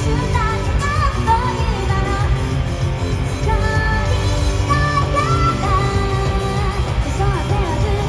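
Japanese rock band playing live at full volume: drums and bass under a lead melody line that bends and slides in pitch.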